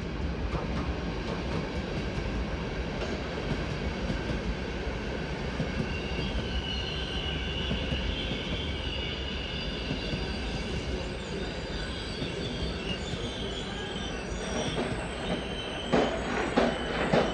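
Train moving on station tracks with a steady rumble; its wheels squeal on the rails for several seconds in the middle. Near the end come a few loud metallic clanks.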